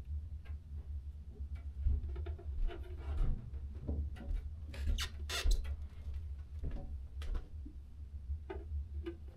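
Hands handling a small plastic sign on a toy slot-car track: irregular light scratching, clicking and rustling, busiest about five seconds in, over a steady low hum.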